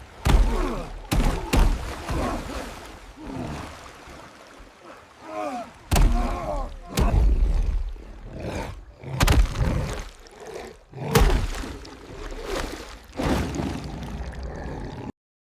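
A violent struggle: a string of heavy thuds and slams with short rising-and-falling cries or growls between them. It cuts off abruptly near the end.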